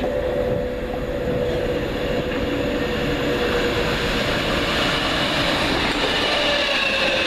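London Overground Class 378 electric train running, a steady rumble of wheels on rail under a whine that sinks slightly in pitch. Higher whining tones come in and slide down from about halfway through.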